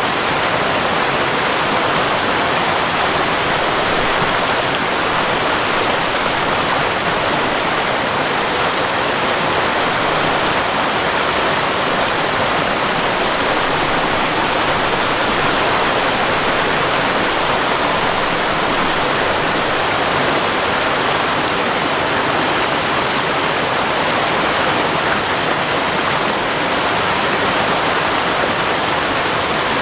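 Waterfall rushing steadily, a seasonal fall in flow after rain, with water splashing and running over rock.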